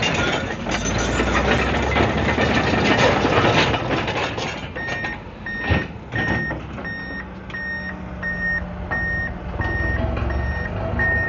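Komatsu D155AX-7 bulldozer working, a loud, dense clattering noise over its diesel engine. About five seconds in its reversing alarm starts beeping about twice a second over the running engine as the dozer backs up.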